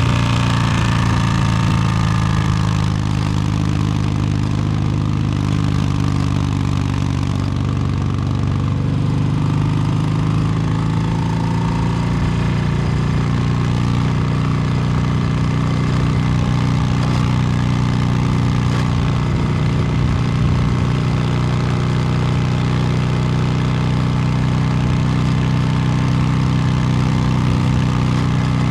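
2022 Harley-Davidson Low Rider S's Milwaukee-Eight 117 V-twin running through an S&S Superstreet 2-into-1 exhaust while riding. The revs drop in the first second, then hold fairly steady with small rises and falls.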